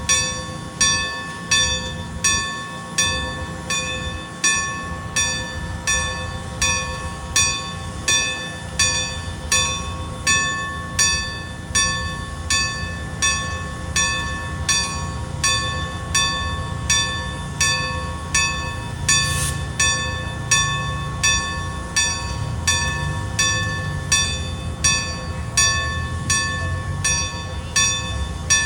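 Railroad grade-crossing bell ringing steadily, about three strikes every two seconds, each strike ringing out on the same set of tones. Under it runs the low, steady rumble of a train.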